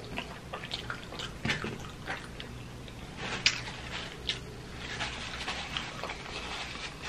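Close-miked chewing of a chicken wing, with wet mouth clicks and smacks. Between about three and six seconds in, a paper napkin crinkles as greasy fingers are wiped.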